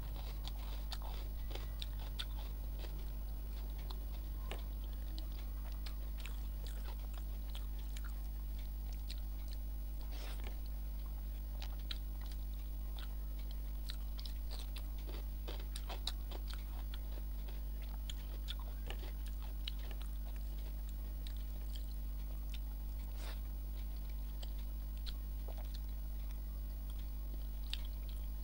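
Close-miked chewing and wet mouth sounds of someone eating rice and curry by hand, with many small scattered clicks, over a steady low hum.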